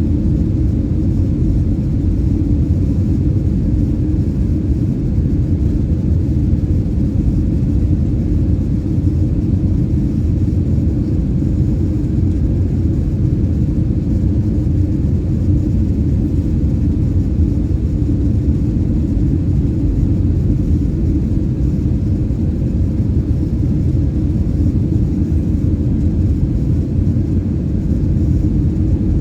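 Steady low rumble of engine and airflow noise inside the cabin of an Airbus A319-115 airliner, even and unchanging throughout.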